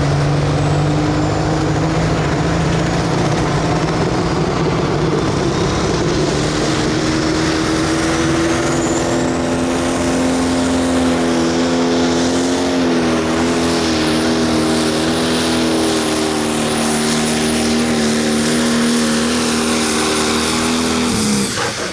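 Pro stock pulling tractor's turbocharged diesel engine at full throttle through a pull. It runs at a steady high pitch that wavers from about halfway, then drops sharply near the end as the throttle comes off.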